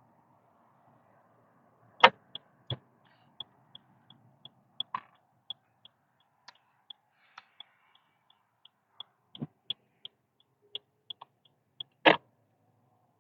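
Car turn-signal indicator ticking at a steady pace, about three clicks a second, with a few louder knocks in between, the loudest near the end.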